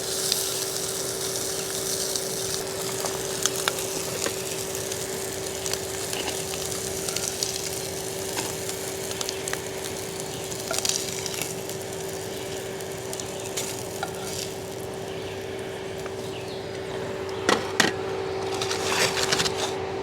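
A fan running with a steady hum, over a wood fire crackling with scattered sharp pops.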